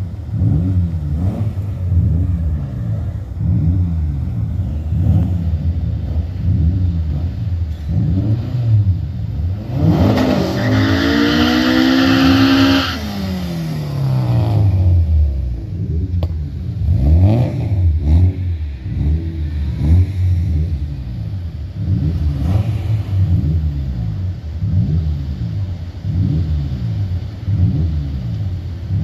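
Staged street-race cars' engines revving in quick repeated blips. About ten seconds in, one car accelerates hard past, its engine pitch climbing for about three seconds, then falling away as it goes by.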